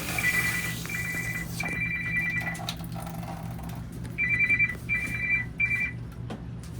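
Electronic trilling ring, like a phone ringing: two high tones sounding together in three bursts, a pause, then three shorter bursts, over a steady low hum.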